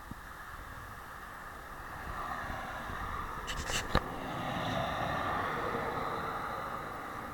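Road traffic: a car passes, its noise swelling and then fading. A few light clicks and one sharp knock come about four seconds in.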